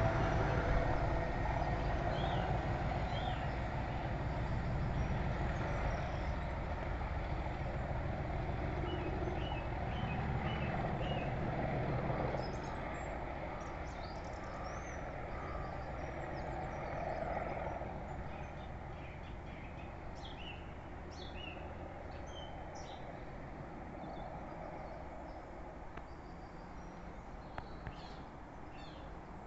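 Class 37-hauled test train running away into the distance, its rumble fading steadily and dropping off noticeably about twelve seconds in. Birds chirp on and off over the fading train.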